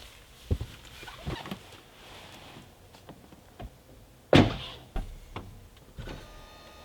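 Scattered light clicks and knocks, then one solid thunk about four seconds in, the loudest sound: a car door shutting.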